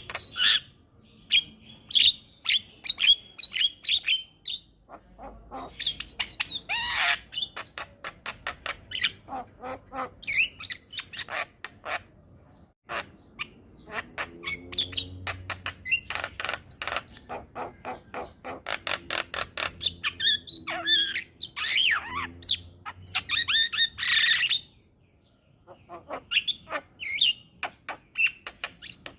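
Javan myna (jalak kebo) song: bursts of rapid, harsh, clicking chatter mixed with whistled notes, with brief pauses between phrases.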